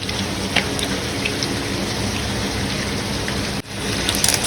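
Onions and hand-crushed tomatoes frying in hot oil in a pan, a steady sizzle. It drops out abruptly for a moment about three and a half seconds in, then a few light clicks come near the end.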